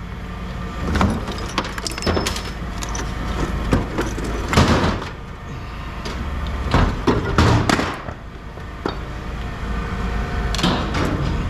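Scrap metal being handled: irregular clanks and knocks, half a dozen in all, over a steady low engine rumble.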